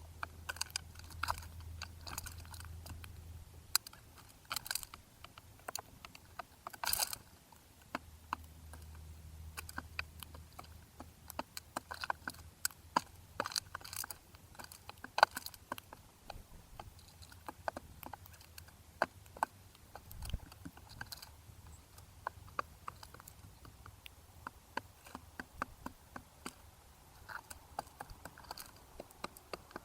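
Birds pecking and cracking seed at a feeder close to the microphone: a busy, irregular run of sharp clicks and taps, with a low hum underneath in places.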